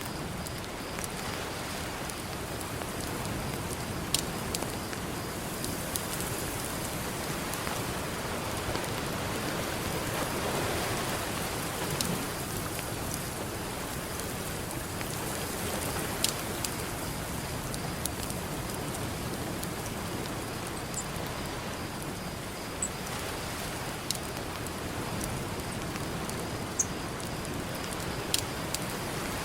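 Campfire crackling, with scattered sharp pops, over a steady wash of ocean surf that swells once near the middle.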